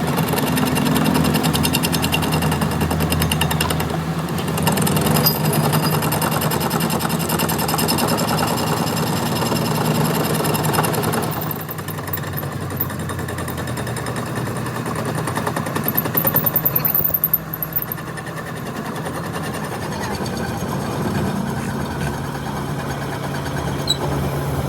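Workshop machinery running with a fast mechanical rattle over a low steady hum; the rattle eases about halfway through while the hum carries on.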